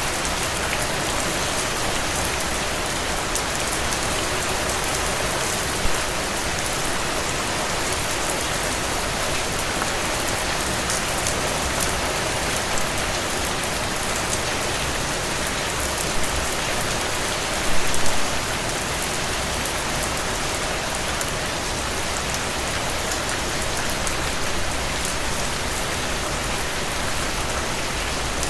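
Rain falling steadily, an even hiss with scattered drop ticks and a brief louder burst about two-thirds of the way in.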